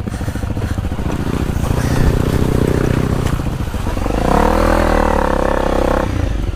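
Honda CRF250L's 250 cc single-cylinder four-stroke engine pulling along in first gear, revving higher about four seconds in and easing off near six seconds.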